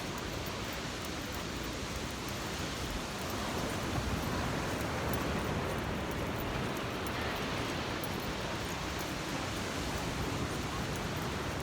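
Steady beach ambience: an even hiss of wind and small waves washing on the shore, a little louder through the middle.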